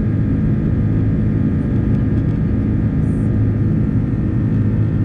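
Airbus A330-300 jet airliner engines running at a steady, even drone with several constant low tones, loudness unchanging.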